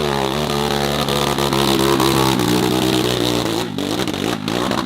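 Hill-climb dirt bike engine revving hard, its pitch rising and falling as the throttle works, then easing off about three and a half seconds in, followed by a couple of short knocks.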